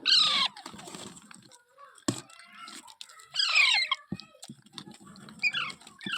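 Young rose-ringed parakeets giving three harsh calls, each sliding down in pitch: one at the start, one about three and a half seconds in, one near the end. A few sharp clicks sound between the calls.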